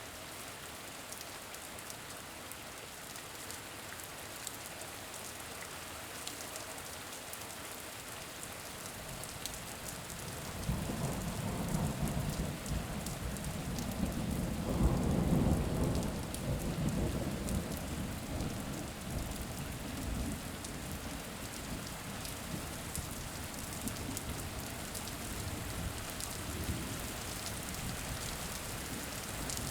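Steady rain with a long low rumble of thunder that builds about a third of the way in, is loudest around halfway, then fades back into the rain.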